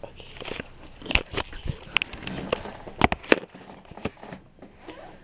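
A string of sharp, irregular clicks and crackles, about a dozen, loudest around three seconds in.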